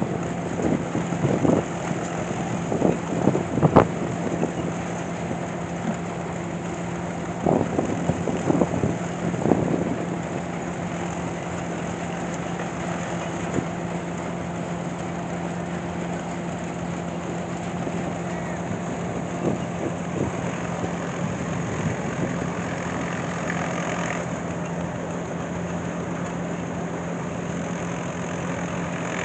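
An engine idling steadily with an even hum. A few short, louder sounds break in during the first ten seconds.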